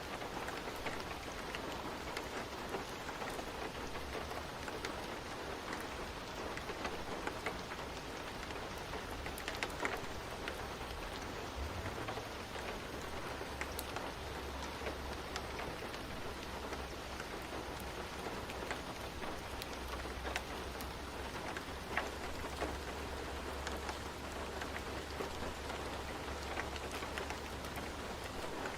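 Steady rain falling, with scattered sharp crackles and pops from a fireplace. A low rumble comes in from about twelve seconds in.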